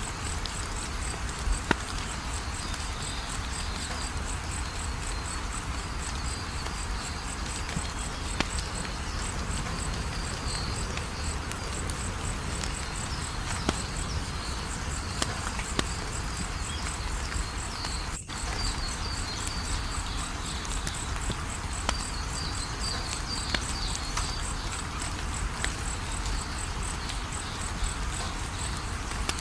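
Wood fire crackling, with scattered sharp pops over a steady low rumble, while crickets chirp in a fast, even high pulse throughout. The sound drops out for an instant about two-thirds of the way through.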